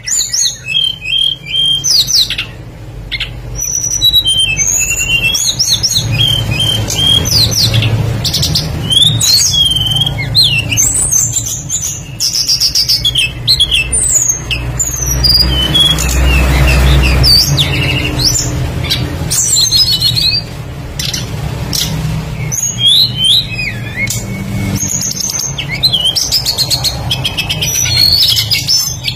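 Songbird lure recording of a tledekan (flycatcher) singing fast, busy runs of chirps, whistles and trills with mimicked phrases, without pause, with a low rumble underneath in the middle.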